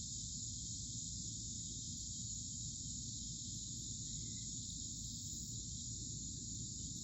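Steady, unbroken high-pitched chorus of insects, with a low rumble underneath.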